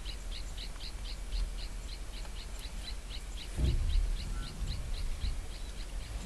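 A high, short chirp repeated steadily, about four times a second, from a small calling creature in the bush. There is a brief low rumble about three and a half seconds in.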